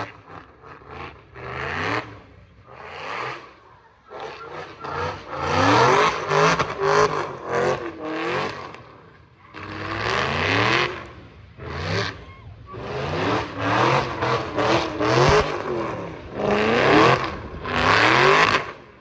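Car engine revving hard again and again, its pitch sweeping up and down in surges every few seconds, with loud tyre hiss as the car spins its wheels doing sideshow donuts.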